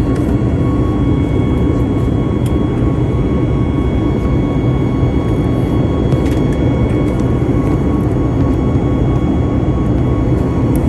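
Jet airliner in flight, heard from inside the cabin: a steady engine and air noise that does not change, with a faint steady whine above it.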